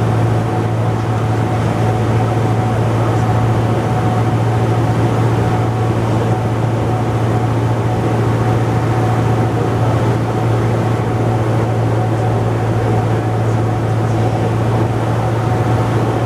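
Cessna 172's piston engine and propeller droning steadily, with a thin steady whine above the low drone.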